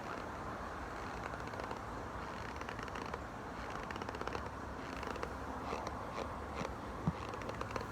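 Raw corn starch being chewed close to the microphone, a dense fine crackling and squeaking over a steady low hum, with one sharp click about seven seconds in.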